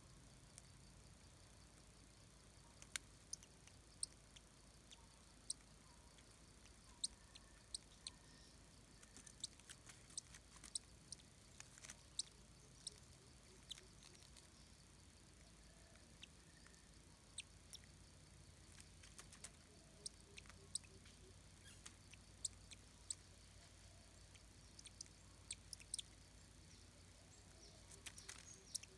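Near silence with faint, scattered sharp clicks and ticks, several every few seconds, and a few faint high chirps.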